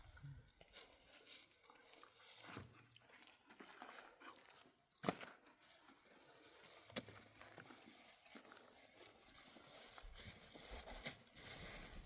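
Near silence with faint scattered taps and clicks; one sharper click about five seconds in.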